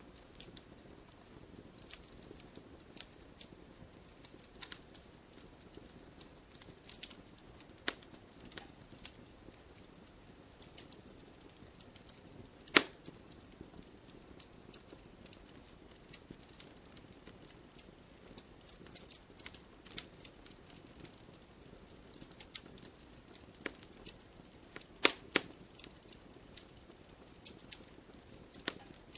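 Campfire burning: scattered sharp crackles and pops of burning wood over a soft, steady hiss, with one louder pop about halfway through and a quick pair of pops near the end.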